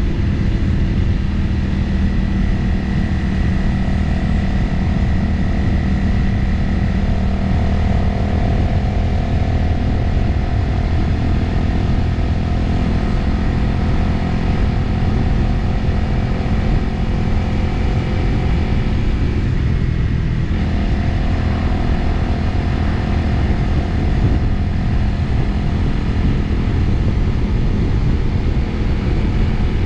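Motorcycle engine running at a steady cruise, heard from on board, with wind rushing over the microphone. The engine note holds steady, with a brief change in pitch a little past the middle.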